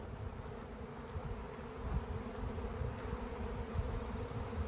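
Honeybee swarm in flight, thousands of bees making a steady, dense buzzing hum.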